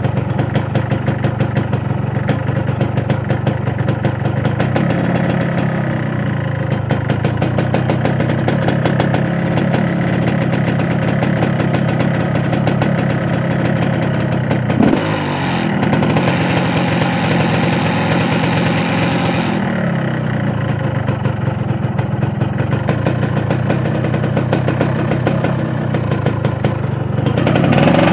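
Yamaha RX-King 135 cc two-stroke single-cylinder engine running while the motorcycle is ridden. About halfway through, the revs dip and climb again, and they rise near the end.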